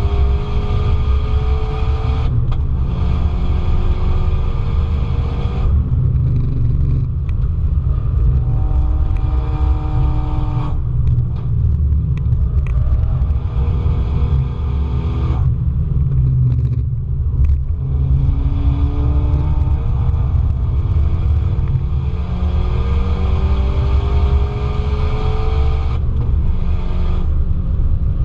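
Car engine heard from on board, driven hard: its pitch climbs steadily in each gear and breaks off at each of about six gear changes or lifts, over a heavy low rumble of road and wind noise.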